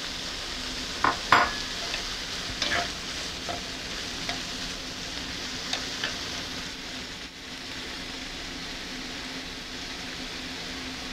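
Bacon lardons and cut mushrooms sizzling steadily in butter in a hot skillet, with a few sharp clicks and taps in the first few seconds.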